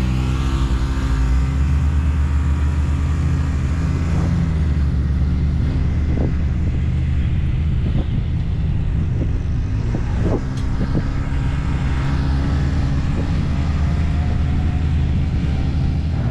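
A motor vehicle's engine running steadily while driving, with a few light knocks and rattles.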